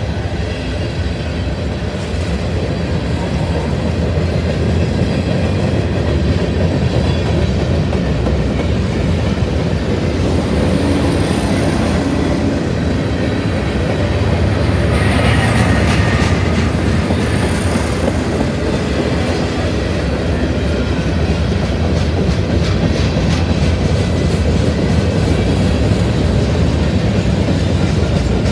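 A Norfolk Southern train rolling past trackside with a steady rumble of wheels on rail. There are a few brief high hisses about halfway through, and a clickety-clack of wheels over rail joints in the last several seconds.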